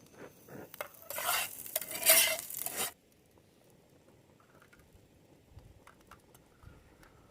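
Metal cookware and a utensil clattering and scraping for about two seconds, then a few faint clicks.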